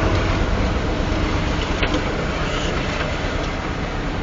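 Union Pacific freight train of tank cars rolling past at slow speed, a steady rumble of wheels on rail that eases slightly in loudness.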